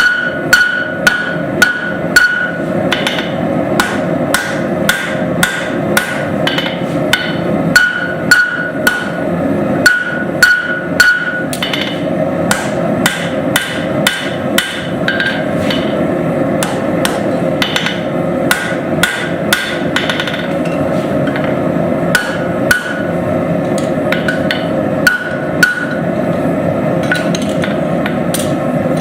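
Hammer blows on hot steel at an anvil, about two a second with short pauses, many strikes followed by a brief high ring from the anvil, over a steady rushing noise.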